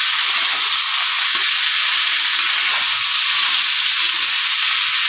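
Ridge gourd and potato pieces sizzling in hot oil in a wok: a steady frying hiss.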